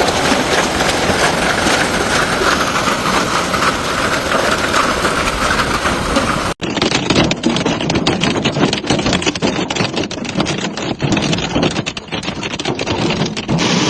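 Hailstorm with heavy rain coming down in a dense, steady roar. After an abrupt cut about halfway through, a rapid clatter of hailstones striking a hard surface, many sharp hits a second.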